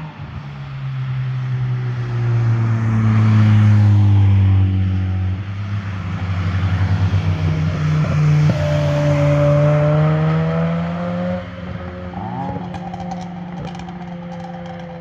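A car's engine and exhaust accelerating past, loudest three to five seconds in. The engine note then climbs steadily as it pulls away, drops at a gear change about eleven seconds in, and a few short crackles follow.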